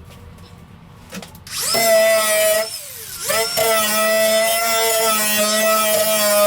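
Electric power drill run at speed, starting about one and a half seconds in with a steady whine. It is let off near the three-second mark, the pitch falling as it spins down, then triggered again and runs steadily.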